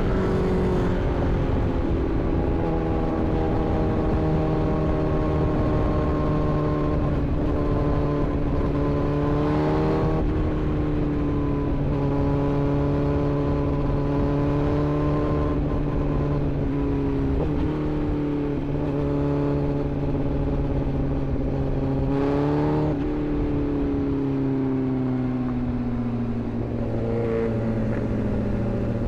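Inline-four sport motorcycle engine running at a steady cruise in traffic, its note holding and slowly sagging, with brief throttle changes about ten seconds in and again near the end, over a constant rush of wind and road noise.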